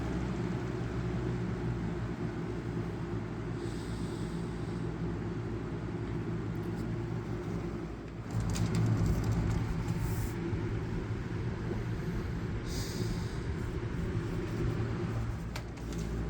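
Holmes HABF20 box fan running on its low speed, a steady hum that dips briefly about eight seconds in and comes back a little louder. It carries a bearing-like noise that the owner puts down to leaves worked up into the hub.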